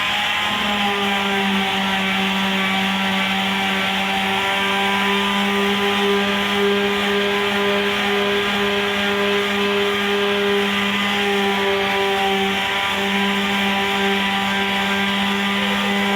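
Handheld electric power tool running at a steady high speed with a steady whine, used for sanding down body filler.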